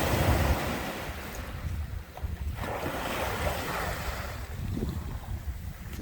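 Sea waves washing onto the shore, swelling in at the start and again about two and a half seconds in, with wind rumbling on the microphone.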